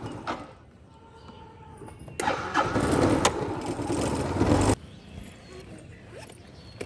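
Vehicle engine running with a rushing noise: one loud stretch of about two and a half seconds, beginning about two seconds in, that starts and stops abruptly.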